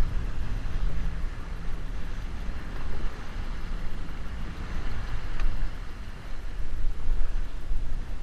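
Small boat's motor running steadily under way, with wind rumbling on the microphone.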